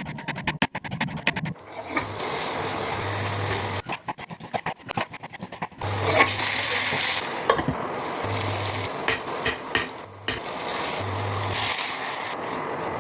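Cabbage and chicken pakoda mixture frying in hot oil, with a steady sizzle that swells about six seconds in. Two stretches of rapid clicking stirring strokes break in, one at the start and one about four seconds in.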